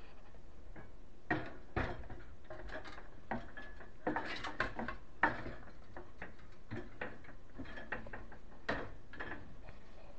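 Irregular clicks, taps and light knocks of metal hardware being handled and fitted, from work on a kitchen cabinet pull-out basket and its runners.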